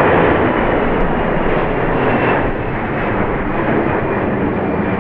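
Jet airliner engines at high power: a loud, steady rush of noise that eases slightly about halfway through.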